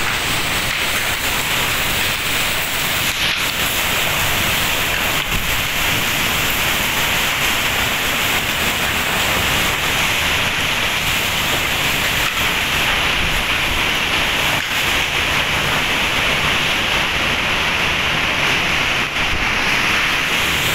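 Heavy rain pouring down in a storm with strong wind, a steady loud rushing hiss.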